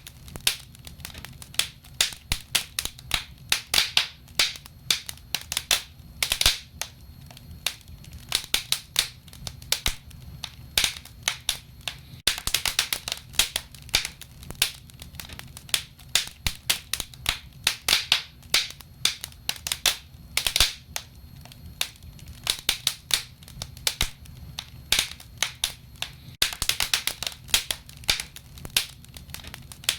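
Wood fire crackling in a stove or fireplace: dense, irregular pops and snaps of burning logs, coming in clusters, over a low steady rumble of the flames.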